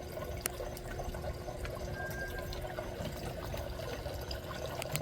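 Steady running-water noise with a low hum under it, a couple of sharp clicks, and a brief high whistle about two seconds in.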